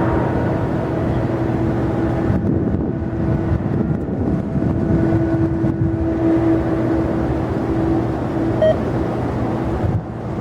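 Jet airliner engines running: a steady rumble with a held humming drone.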